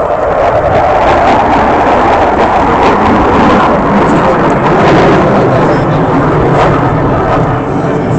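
Boeing F/A-18 Hornet fighter jet making a loud, low pass, its twin jet engines giving a sustained roar that builds in the first second and holds.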